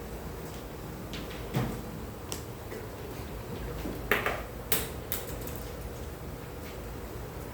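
Quiet classroom room hum with a handful of short, sharp clicks and taps, the loudest few a little past the middle.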